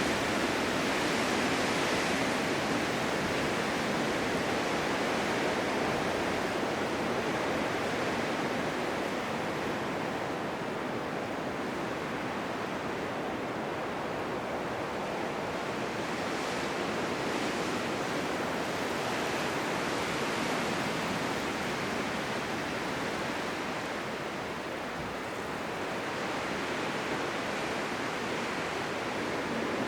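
Blizzard wind rushing as a steady, even hiss of noise with no distinct gusts or knocks. It eases slightly in the middle and swells again near the end.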